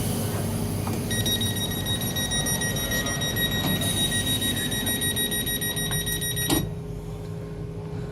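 A steady, high electronic warning tone sounds for about five seconds and cuts off with a click, over the low rumble of the HST's diesel engines.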